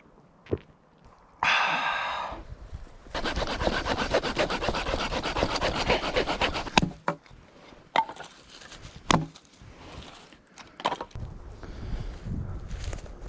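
Wood being cut by hand with fast back-and-forth sawing strokes for a few seconds, after a short scrape. A few separate sharp knocks follow.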